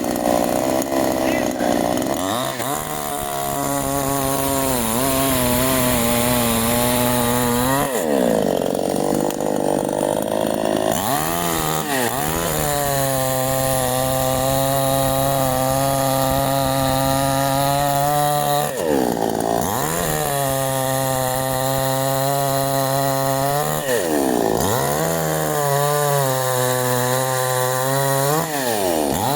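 Canfly 5800 two-stroke petrol chainsaw running at high revs while cutting wood. Its engine pitch sags and recovers several times, with a longer dip about eight seconds in.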